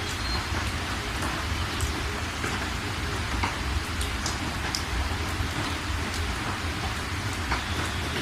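Steady rain falling, with a continuous hiss, a deep low rumble underneath and scattered individual drop impacts.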